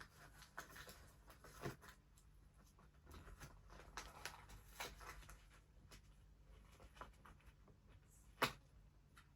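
Faint, scattered clicks and rustles of a toy figure's cardboard-and-plastic box being handled and pried at, with one sharper knock near the end.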